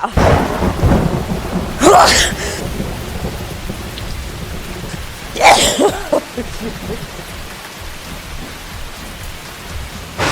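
Thunderstorm: steady rain with a low rumble of thunder at the start, and two loud sudden bursts about two seconds and five and a half seconds in.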